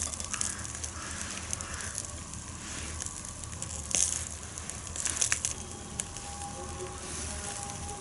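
Campfire crackling, with scattered snaps and a few sharper pops over a steady hiss.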